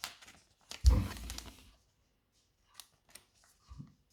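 Plastic card sleeves being handled: a thump with rustling about a second in, then a few light ticks and taps.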